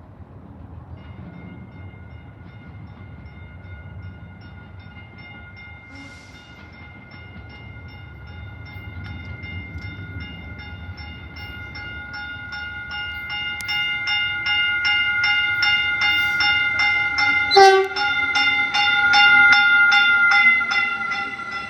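Railroad grade-crossing bell ringing with evenly repeated strikes about three a second, getting louder toward the end. A brief sharp burst cuts in near the end.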